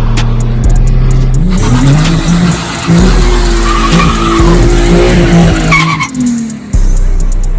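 Nissan 370Z's 3.7-litre V6 through an aftermarket axle-back exhaust, revving hard with its pitch climbing and stepping up and down as it runs through the gears, with short tire squeals.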